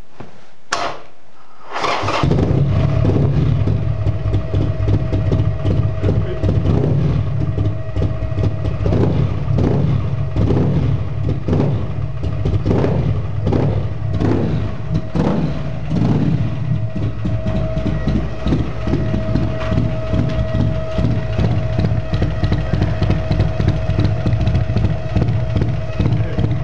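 2004 Buell XB12S's 1203 cc air-cooled V-twin through a Jardine exhaust with no muffler, catching and starting about two seconds in, then running loudly. Through the middle the throttle is blipped in a series of short revs, then the engine settles to a steady idle.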